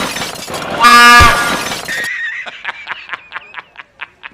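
A short, loud train horn blast about a second in, one pitched blare rich in overtones. Through the second half comes a quick run of sharp ticks, about five a second.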